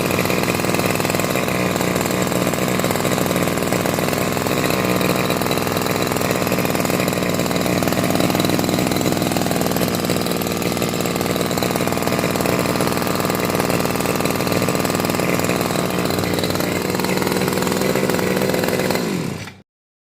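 Green BG 328 two-stroke brush cutter engine running steadily at an even speed, then cutting off suddenly near the end.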